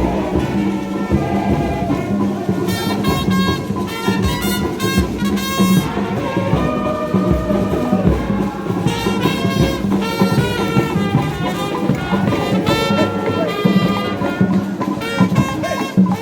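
A brass band playing a lively tune, the horns carrying the melody.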